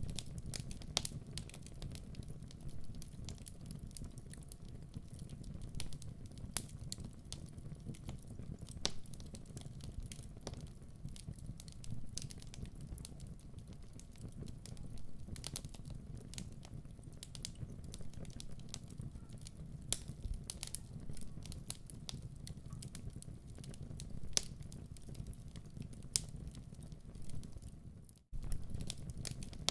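Wood fire burning in a fireplace: a steady low rumble with irregular sharp crackles and pops from the burning logs. The sound cuts out for a moment about 28 seconds in and then carries on as before.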